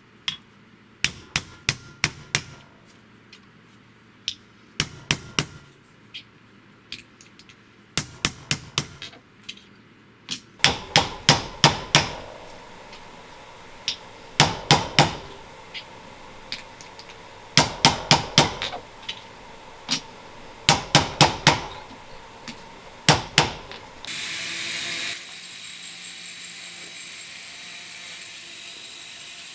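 Small hammer striking brass, in quick bursts of three to six blows with short pauses between: shaping the small brass sprouts for a sculpture. In the last few seconds a small power tool starts up and runs with a steady whir.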